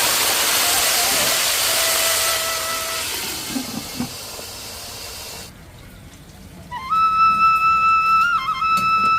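A steady hiss with faint music beneath it fades away over the first five seconds. After a short quiet gap, a flute melody of long held notes comes in about seven seconds in.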